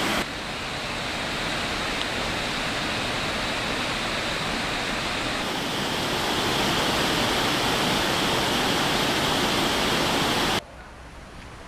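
Waterfall crashing into its plunge pool: a steady rush of falling water that grows a little louder about six seconds in, then turns abruptly quieter and more distant near the end.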